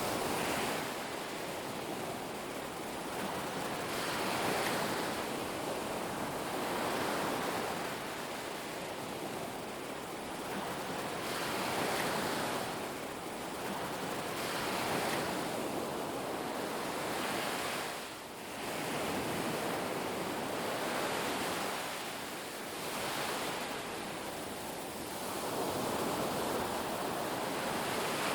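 Ocean waves breaking and washing up a beach: a continuous rushing surf that swells and eases every few seconds.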